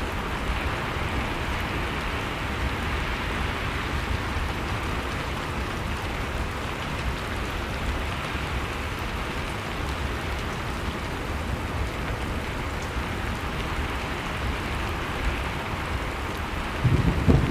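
Blizzard-and-fireplace ambience: a steady hiss of storm wind with faint fire crackles. About a second before the end, a louder deep rumble comes in.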